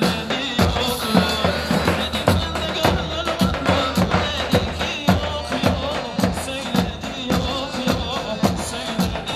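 Instrumental Turkish halay dance music from a live band: a melody line over a steady, driving drum beat, with no singing.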